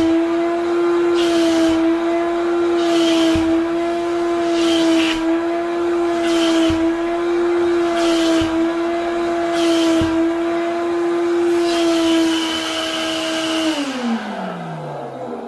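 Wet vacuum cleaner's motor running with a steady high whine, while a hiss of air rushing through the nozzle swells and fades about every second and a half. Near the end the motor is switched off and its whine falls away as it spins down.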